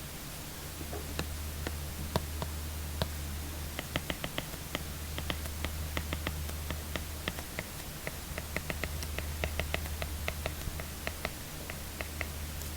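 Apple Pencil tip tapping and clicking on an iPad screen while writing: an irregular run of small sharp ticks, a few at first, then several a second from about four seconds in. A steady low hum and hiss lie underneath.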